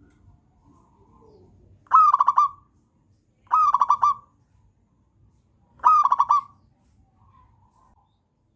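Zebra dove (perkutut) singing: three short phrases of quick staccato cooing notes, a second and a half to two seconds apart.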